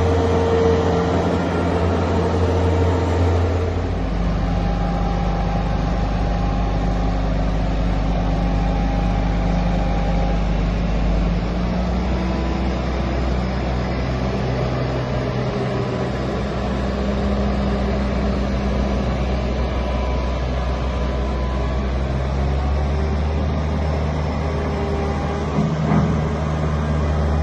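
Bobcat S450 skid-steer loader's diesel engine running steadily as the machine works, its engine note shifting several times. A brief clatter comes near the end.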